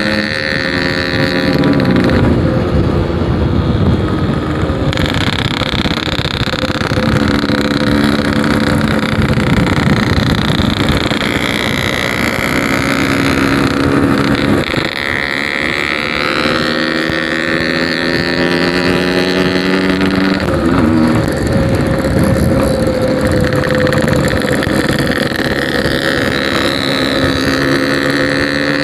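Yamaha RX-King 135cc two-stroke motorcycle with a Packing Power aftermarket exhaust, heard from the bike while riding. The engine pitch climbs and drops several times as it revs up through the gears, with wind on the microphone.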